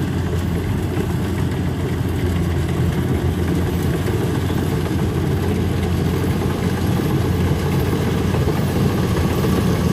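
Rice combine harvester engine running steadily, a continuous low drone.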